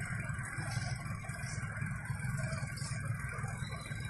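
Motor vehicle running, a steady low rumble with a light hiss over it.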